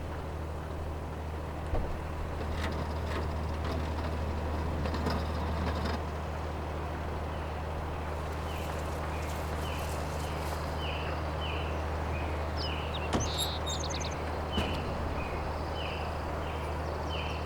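A steady low engine-like drone, with a few sharp knocks, and through the second half a bird giving a short, downward chirp about three times every two seconds.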